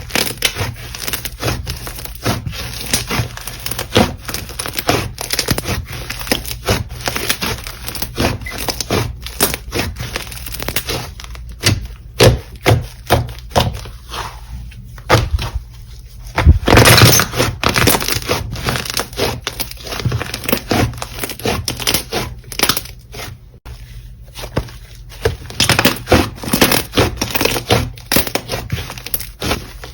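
Slime being squeezed and pressed by hand, giving a continuous run of crackling clicks and pops, loudest and densest a little past halfway.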